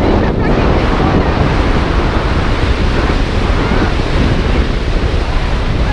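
Wind buffeting the camera's microphone: a loud, steady rushing with deep rumble.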